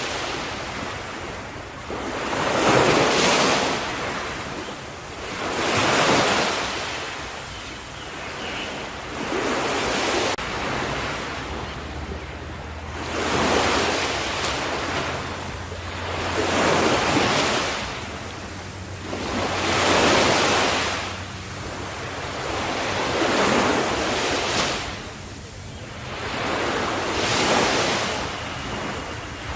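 Ocean waves breaking and washing onto the shore, a surge of hissing surf about every three to four seconds that swells and ebbs away between them.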